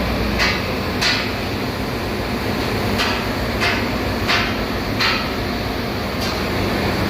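Steady drone of ship engine-room machinery, with about seven sharp metallic knocks and clangs at irregular intervals, as of hammering or tools striking steel.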